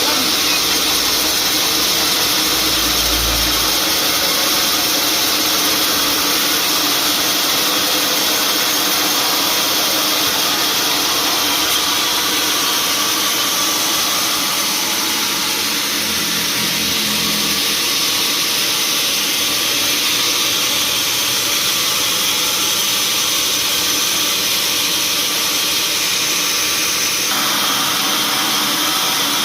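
Sawmill machinery running steadily, a dense mechanical noise with a constant hum, its tone shifting slightly near the end.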